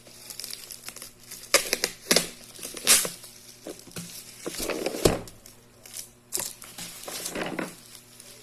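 Toy packaging being handled and opened: irregular crinkling and crackling with a few sharp tearing rustles.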